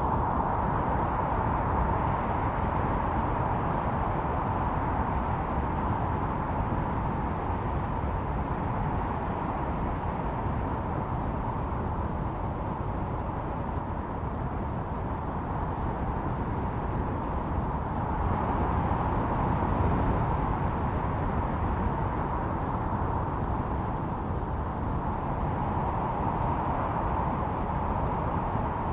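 Snowstorm wind blowing steadily, with a low rumble and a howling note that swells in gusts at the start, about two-thirds of the way through, and again near the end.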